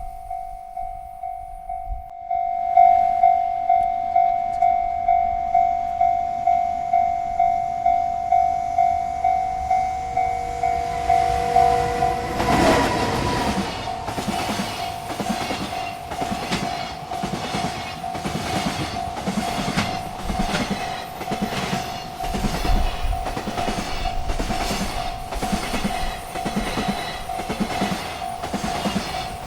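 A railroad crossing bell rings in regular strokes, a little under two a second. About twelve seconds in, a freight train arrives and runs past, its wheels clacking over the rail joints while the bell keeps ringing underneath.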